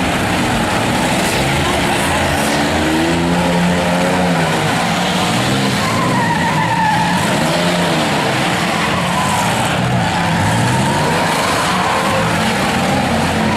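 Several demolition derby cars' engines revving up and down together over a dense roar, with tyres skidding.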